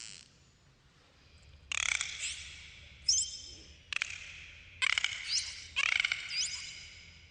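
Dolphins calling: a run of about five buzzy pulsed calls, each a rapid train of clicks, mixed with short upward-sweeping whistles.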